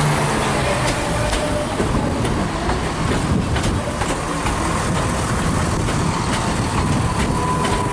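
Class 175 diesel multiple unit moving along the track, its wheels clicking over rail joints among a steady rumble.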